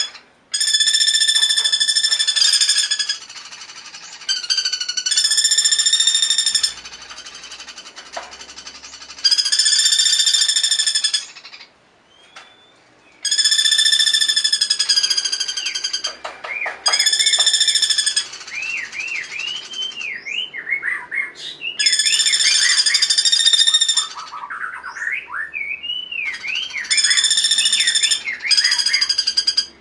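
Recorded songbird song: repeated buzzy, rattling trills of one to three seconds, and from about halfway on, fast looping whistled notes sweeping up and down between them.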